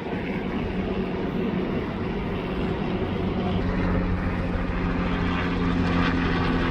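Aircraft engine droning overhead, growing louder over a steady rush of noise.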